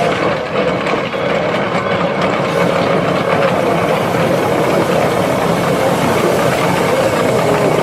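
A train running on the rails: a steady mechanical rumble and rattle with no breaks.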